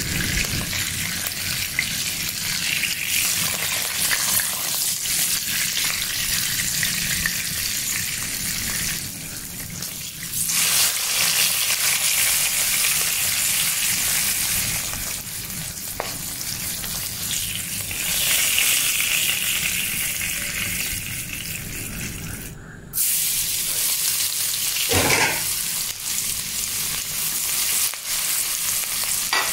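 Salted fish sizzling steadily in hot oil in a pan. After a short break near the end, chopped onion sizzles in oil while a wooden spatula stirs it.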